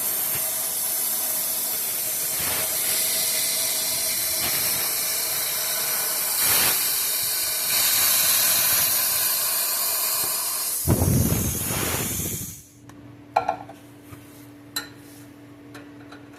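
Plasma cutter arc cutting exhaust pipe: a steady loud hiss that swells and deepens for a moment, then cuts off suddenly about twelve seconds in. After it a steady low hum and a few light clicks remain.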